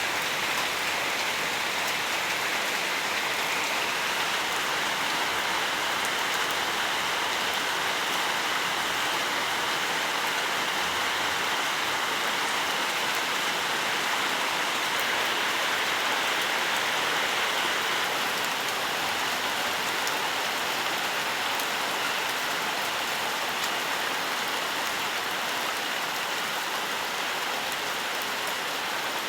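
Steady, dense rainfall on foliage and ground, an even hiss of many drops with no break or swell.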